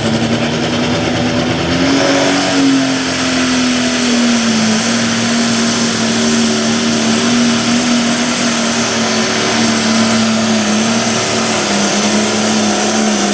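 A light limited class pulling tractor's diesel engine, with a 480 cubic inch limit, running flat out while dragging the weight sled down the track. Its pitch climbs in the first couple of seconds, then sags slowly toward the end as the sled's load builds.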